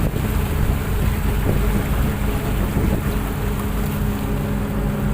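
Tugboat's diesel engine running steadily: a constant low drone with a steady hum.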